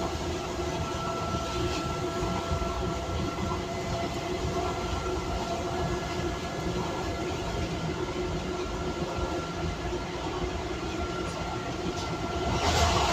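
Docklands Light Railway train running, heard from inside the carriage: a steady rumble and hiss with faint steady tones over it. Near the end the rushing noise swells louder.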